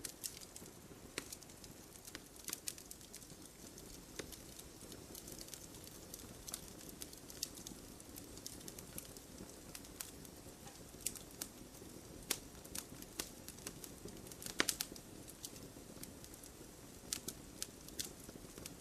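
Wood campfire crackling: irregular sharp pops and snaps over a low steady hiss, with one louder pop about fifteen seconds in.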